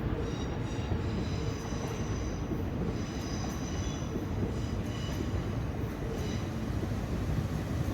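Koleje Śląskie regional passenger train rolling through the station, a steady low rumble of wheels on the rails with thin, high-pitched squeals that come and go.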